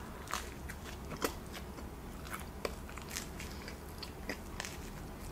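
Close-miked chewing of a piece of cheese-stuffed pizza crust, with scattered soft mouth clicks.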